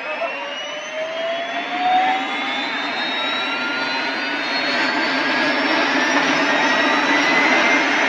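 Helicopter turbine engine whining, its tones rising steadily in pitch and the sound growing louder as the engine speeds up.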